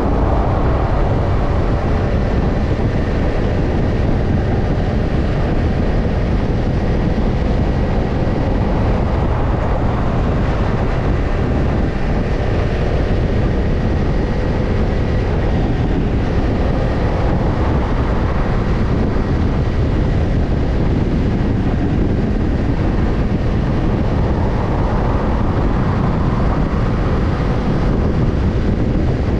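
Kawasaki Ninja 250's parallel-twin engine running steadily through a BEET NASSERT Evolution Type II titanium slip-on muffler. The engine note swells slightly near the start and again late on.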